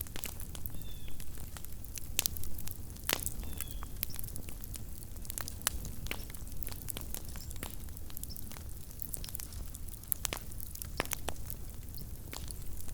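Small wood campfire crackling, with irregular sharp pops and snaps several times a second over a steady low rumble.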